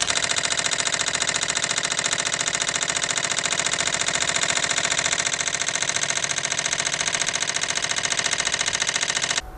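Homemade soda-can Stirling engine, heated by a candle, running fast with a steady, rapid, even clatter of its moving parts. The clatter stops abruptly near the end.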